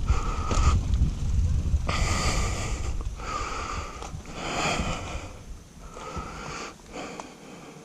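A mountain biker's heavy breathing close to a helmet-mounted action camera, breaths coming about every second and a half. Wind rumbles on the microphone in the first few seconds and fades as the ride slows.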